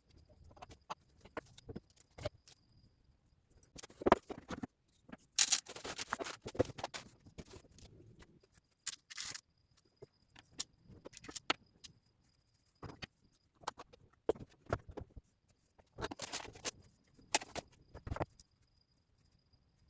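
Loose beads clicking, rattling and scraping in irregular handfuls, with short pauses between, as they are sorted by hand on a table.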